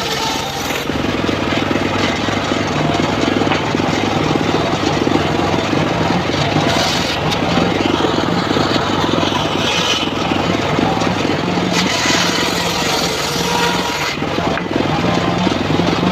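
Engine of a homemade circular-saw sawmill running steadily at a loud level. About a second in the sound grows heavier and stays so, with a low drone whose pitch shifts in small steps.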